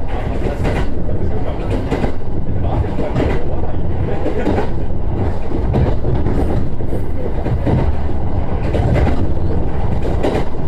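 JR East E129 series electric train running at speed, heard from inside the carriage: a steady low rumble with the wheels clicking over rail joints every few seconds.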